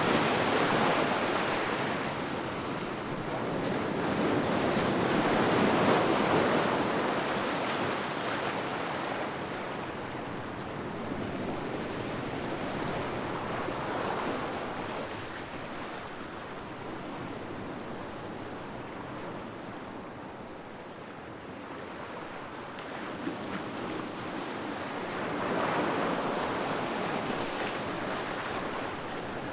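Sea waves breaking and washing up on a shore, swelling and fading about every eight to ten seconds, with a steady wash of surf between them.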